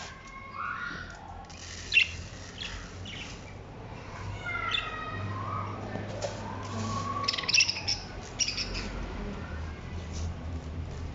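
Small cage birds, finches, chirping and calling: scattered short sharp chirps and a few gliding calls, with a faint steady low hum underneath.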